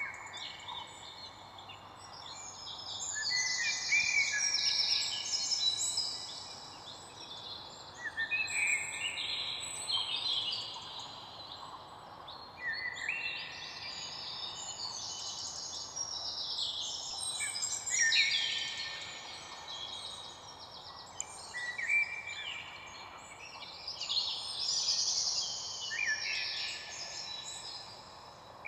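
Many songbirds singing at once, their trills and chirping phrases overlapping in waves, over a faint steady background hiss.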